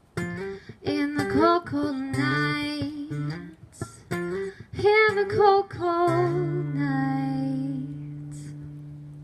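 Acoustic guitar strumming under a woman singing the song's last sung notes. About six seconds in, a final chord is held and rings out, slowly fading.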